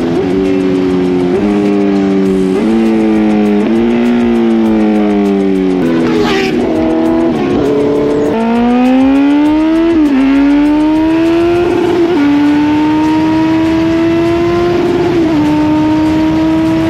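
Motorcycle engine accelerating hard through the gears: its pitch climbs and drops back at each shift, several times in quick succession. The engine eases off in the middle, then pulls up again and holds a high, steady pitch near the end.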